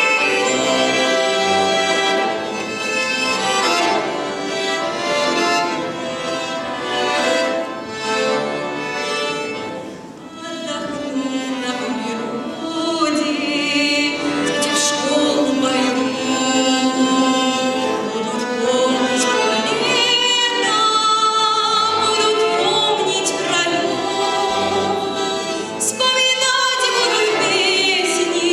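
A girl's solo voice singing a song over instrumental accompaniment. The first few seconds are mostly the instrument, and after a short dip the singing voice comes in with vibrato and carries on to the end.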